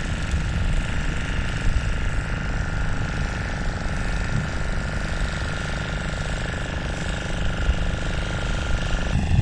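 An engine running steadily: a rough low rumble with a steady high whine over it.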